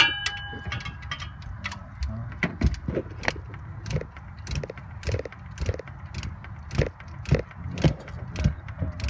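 A metal part strikes with a short ringing clang, then a ratchet wrench clicks through steady strokes about twice a second, tightening a bracket's bolts back on.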